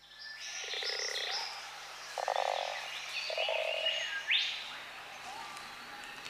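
A chorus of frogs croaking: overlapping pulsed croaks repeating, mixed with higher calls that sweep up in pitch.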